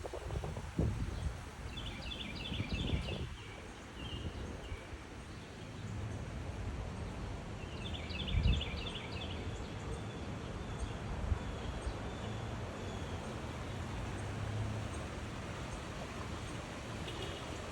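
A songbird singing short phrases of rapid repeated high notes, about two seconds in, again about eight seconds in and once more near the end, over a steady low outdoor rumble. A low thump comes about eight and a half seconds in.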